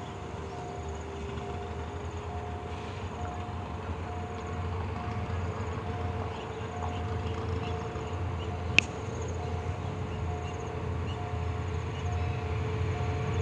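Diesel locomotive CSR-5119 with a freight train approaching, a low rumble growing steadily louder, under a level-crossing warning signal beeping on and off about twice a second. A single sharp click about nine seconds in.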